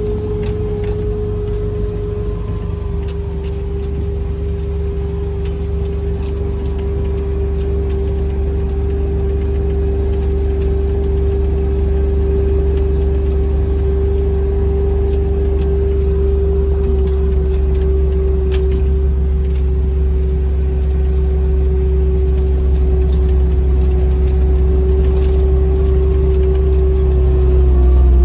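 A vehicle driving steadily over farm ground: a low engine rumble with a steady whine above it, getting slowly louder.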